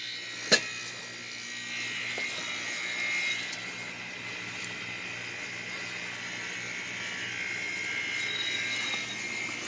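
A click about half a second in, then the compressor of a Goodman air conditioner's outdoor unit running with a steady hum, its condenser fan disconnected so only the compressor runs.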